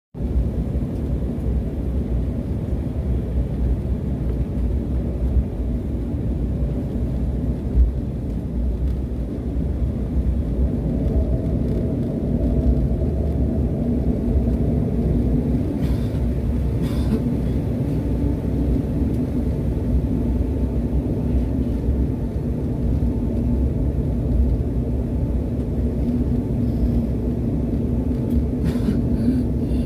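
Airplane taxiing: a steady low rumble of engines and wheels, with a steady hum that grows stronger about a third of the way in.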